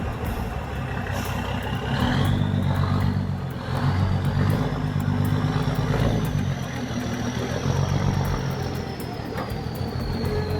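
Heavy truck's diesel engine working under load, swelling and easing several times, with a thin high whistle that rises in pitch and then slowly falls.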